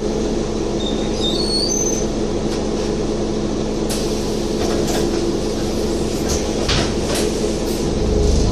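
Scania N230UD double-decker bus's five-cylinder diesel engine running steadily at idle, with a few high chirps and several sharp clicks; near the end the engine note rises and deepens as the bus starts to pull away.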